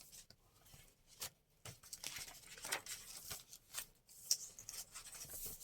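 Paper being handled, with faint rustling and scattered light clicks and taps as the cut piece is placed in a journal.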